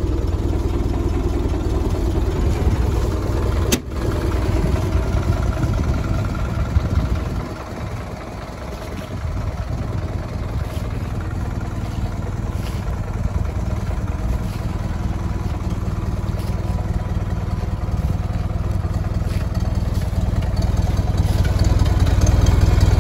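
1916 Ford Model T's four-cylinder engine idling steadily after being started and switched over to the flywheel magneto, with a single sharp click about four seconds in.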